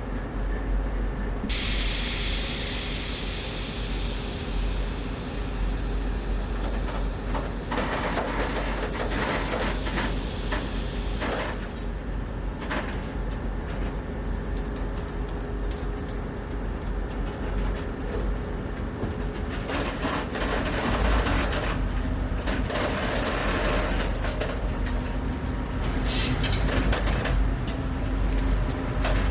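A train running on rails: a steady low rumble with bursts of clacking from the wheels, strongest about a third of the way in and again toward the end, over a continuous hiss.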